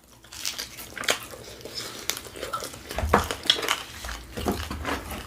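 Eating and table-handling sounds: scattered clicks and taps of food and tableware being handled, with a low rumble from a little past halfway.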